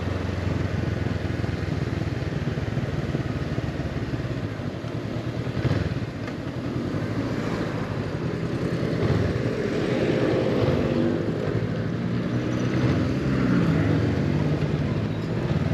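Honda CB500X motorcycle's parallel-twin engine running while riding, heard steadily, with its note shifting up and down in pitch in the second half.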